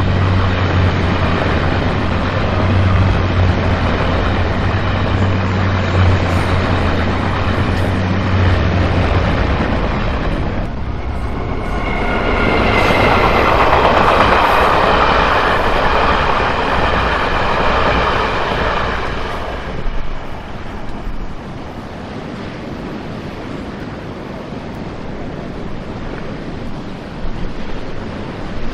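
Trains passing on the line: a steady low drone for the first third, then a loud stretch of wheel-and-rail noise with high squealing tones for several seconds around the middle as a locomotive passes close, fading to a quieter even rush.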